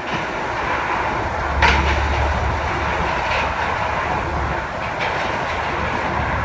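Heavy construction machinery running with a steady low engine rumble. Sharp metallic clanks come about every one and a half to two seconds.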